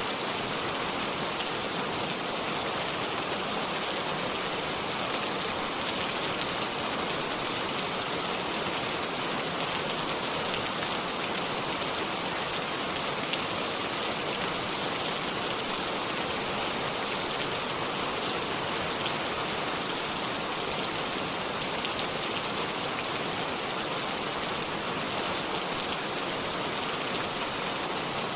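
Steady rainfall: an even hiss of rain with the patter of drops on surfaces, with no thunder.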